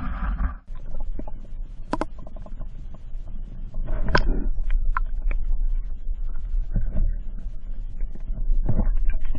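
Muffled low rumble of rushing waterfall water with scattered knocks and clicks, a sharp click about two seconds in and a louder knock about four seconds in.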